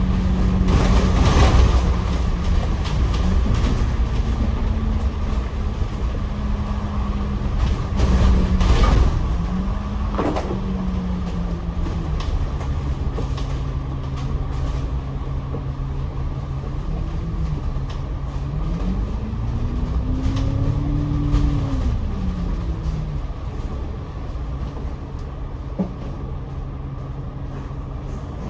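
Double-decker bus driving, heard from the upper deck: a steady low drive hum whose pitch steps and glides with speed, rising and falling again about two-thirds of the way through, over constant road noise with a few light knocks.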